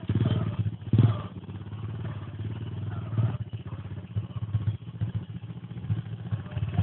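Engine of a 125 cc mini motocross bike running steadily, its level varying a little, with a brief louder burst about a second in.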